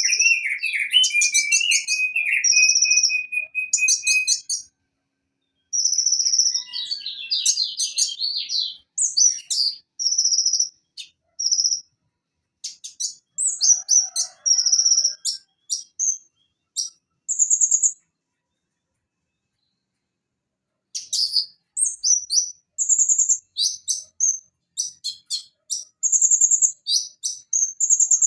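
A konin (kolibri ninja) sunbird, Leptocoma sperata, singing: bursts of rapid, high, sharp chirps and trills with short pauses between them, and a silence of about three seconds past the middle.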